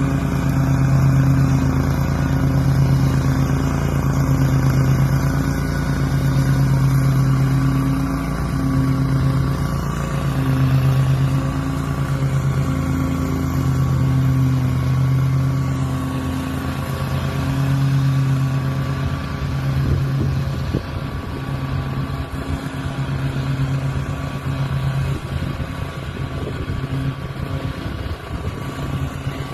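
An engine running steadily, its hum swelling and falling about every two seconds. After about twenty seconds it weakens into a rougher, noisier sound.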